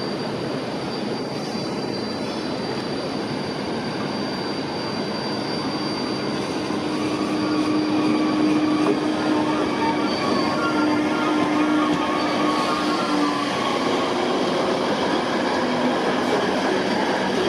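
DB class 612 diesel multiple unit, two units coupled, running past on curved track, its wheels giving a thin high squeal on the curve. A steady drone from the train sits under the rumble in the middle, and the sound grows louder about halfway through as the train comes close.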